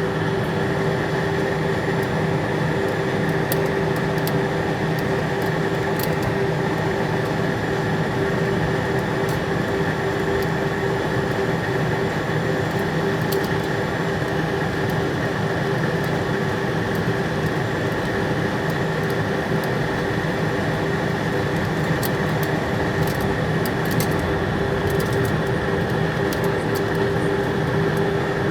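Steady drone of a jet airliner with a constant hum and no rise or fall in level, as heard inside the cabin.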